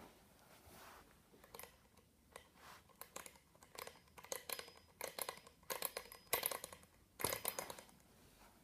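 A run of irregular sharp clicks and light scrapes, growing denser and louder over several seconds and stopping shortly before the end.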